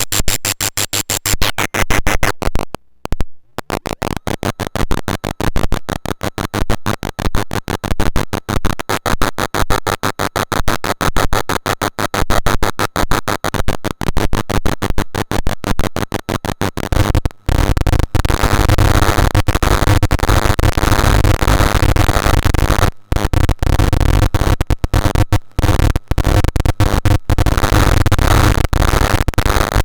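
Eurorack square-oscillator noise module, a Jupiter Storm-style unit, making harsh electronic noise. It starts as a rapid chatter of pulses, briefly drops out about three seconds in, then about seventeen seconds in turns into a dense, bass-heavy noise with a few short cut-outs.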